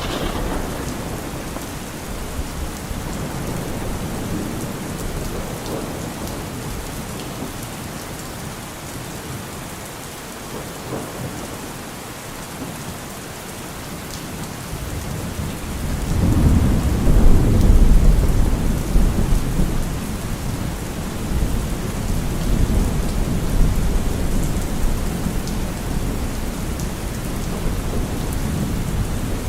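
Steady rain falling, with a long low roll of thunder that swells about halfway through, peaks a couple of seconds later and rumbles away slowly; a fainter rumble fades out at the very start.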